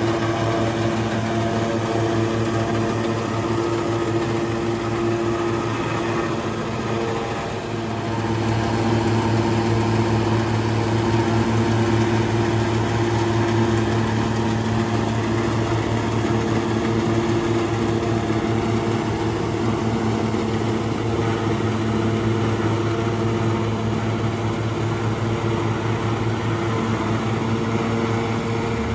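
Tractor engine running steadily while chopping forage. There is a brief dip in level about seven seconds in, after which the deep engine note is stronger.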